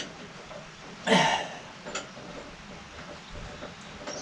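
A rubber drive belt being worked onto a pulley: one short scraping rasp about a second in that drops in pitch, then a few light clicks and knocks.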